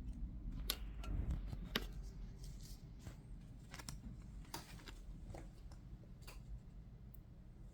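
Yu-Gi-Oh! trading cards being handled and sorted by hand: scattered faint clicks and rustles over a low steady hum.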